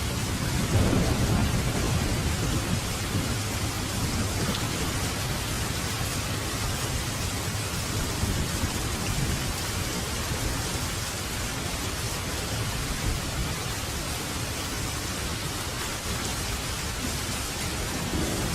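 Steady heavy rain, with a low roll of thunder that swells about a second in and rumbles away over the next few seconds.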